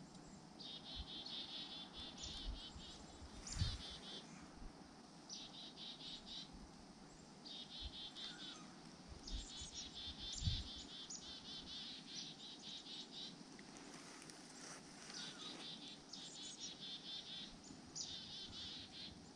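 A small bird gives a run of high, rapid trills, each about a second long, repeated every second or two. Two dull knocks sound, one a few seconds in and one about ten seconds in.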